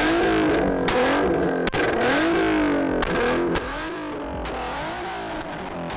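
Car engine revving hard, its pitch climbing and falling about once a second, with a noisy hiss over it. It gets quieter about three and a half seconds in.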